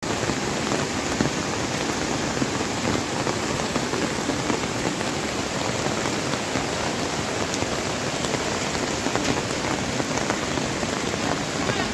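Heavy rain falling together with the rush of a swollen, flooding river: a steady, even hiss with no breaks.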